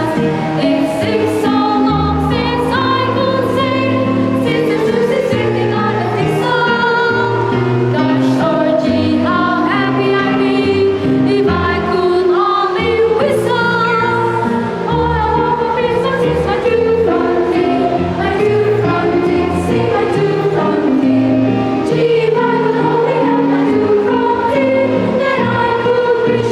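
Children's choir singing a Christmas carol in several parts, with sustained notes over a steady low accompaniment.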